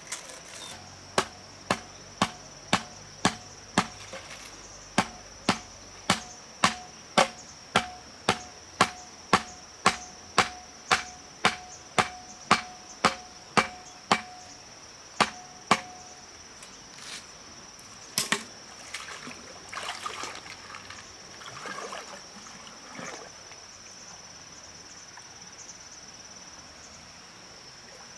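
Repeated chopping strikes on wood, about two a second for some fifteen seconds, then stopping; a single louder knock follows, then softer rustling. A cricket chirrs steadily throughout.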